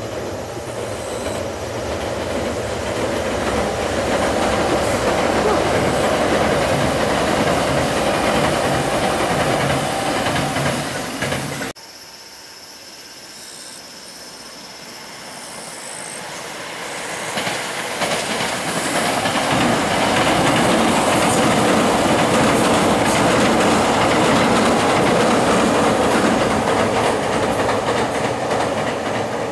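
Kintetsu electric train crossing a railway bridge over the river, a loud rumble with wheels clattering over the rail joints. The sound cuts off abruptly about twelve seconds in, then another train approaches and grows loud again.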